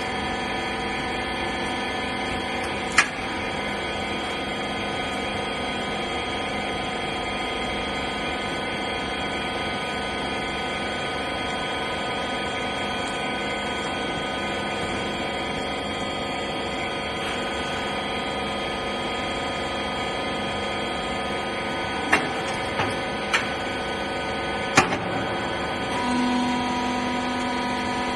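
Hydraulic wiper-rag baler running: a steady motor-and-pump hum, with a sharp knock about three seconds in and a few more clicks and knocks near the end, where the hum also changes tone.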